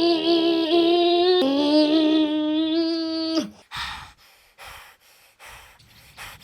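A voice holding a long, steady hummed note that breaks twice, lasting about three and a half seconds, followed by a few faint, short rustling sounds.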